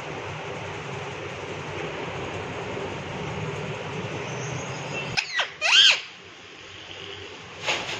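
Indian ringneck parakeet giving a few short, loud calls about five seconds in and once more near the end, over a steady rumbling background noise that cuts off just before the first call.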